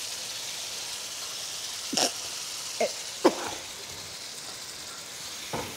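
Chilli gravy sizzling in a wok as it reduces over the heat, a steady hiss. A few brief louder sounds cut in, about two to three and a half seconds in and again near the end.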